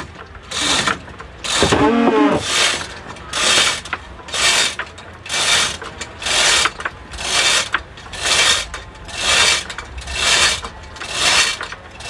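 Hand-worked ratchet mechanism clicking through regular strokes, about one a second, as a winch hauls the boat.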